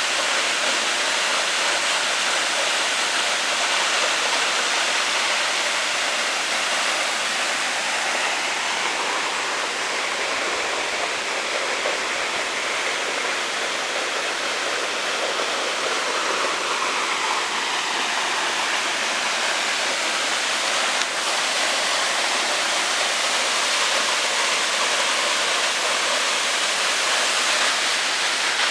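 Waterfall pouring steadily: a continuous, even rush of falling water with no break.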